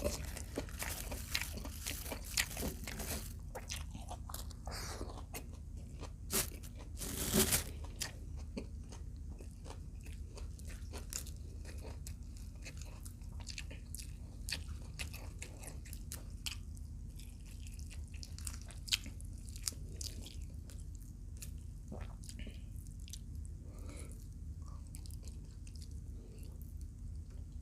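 Close-miked biting and crunching of crisp food, then chewing: crunches come thick in the first few seconds, with one louder crunch about seven seconds in, and settle into quieter chewing with occasional clicks.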